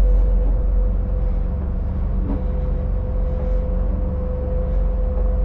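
Boat engines running steadily: a low rumble with a steady whine over it.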